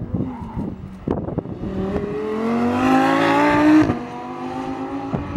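Lamborghini Huracán's V10 engine accelerating past, its note rising steadily in pitch for about two seconds and getting louder, then dropping suddenly and carrying on at a lower, steadier note.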